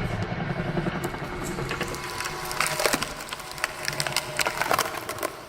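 A log cracking and splintering as an electric, belt-driven screw (drill) log splitter bores into it, with many irregular sharp snaps.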